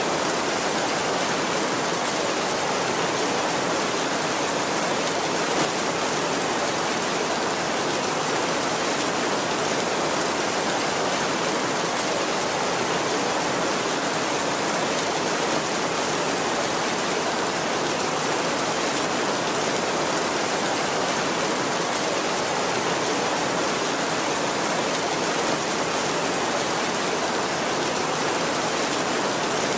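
Heavy rain on a tin roof, falling as a steady, even hiss with no thunder.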